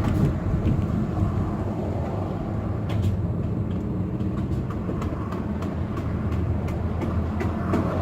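Car interior noise while driving: a steady low rumble of engine and tyres on the road, with scattered sharp clicks and knocks from about three seconds in.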